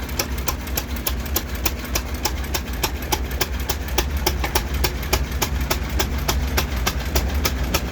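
1922 Fairbanks-Morse Model Z engine running, with a steady fast clatter of about five sharp clicks a second over a low hum.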